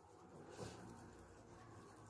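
Near silence: room tone, with a faint soft handling sound about half a second in.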